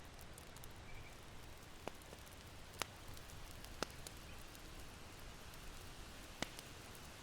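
Charcoal fire in an irori hearth crackling faintly: four sharp pops, about a second apart or more, over a steady soft hiss. One faint short bird chirp about a second in.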